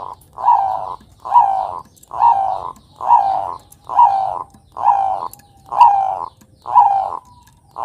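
Bangkok-bred zebra dove (perkutut) cooing in a steady run of short, rolling notes, about one a second. This is its repeated lure song.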